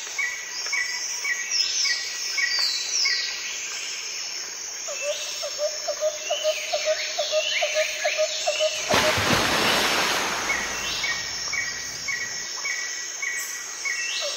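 Birdsong: several birds calling at once, with rows of short repeated chirps and quick downward-sweeping whistles, and a fast trill in the middle. A burst of rushing noise comes in about nine seconds in and lasts about a second and a half.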